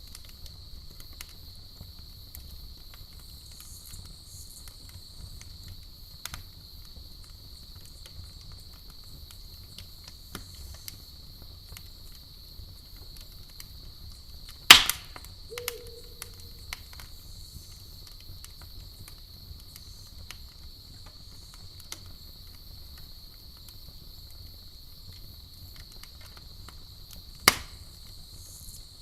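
Campfire crackling with scattered small snaps, and two loud sharp pops, one about halfway through and one near the end. Under it runs a steady high-pitched cricket chorus.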